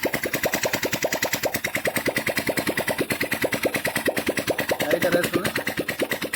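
Honda Dream Neo 110 single-cylinder four-stroke engine idling steadily, about ten to twelve even firing pulses a second. It is run to check that the oil pump is sending oil up to the cylinder head.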